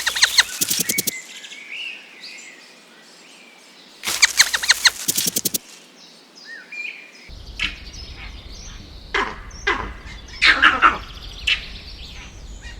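Birds calling: two bursts of rapid repeated clicking calls, a few short downward-sliding chirps, then scattered short calls.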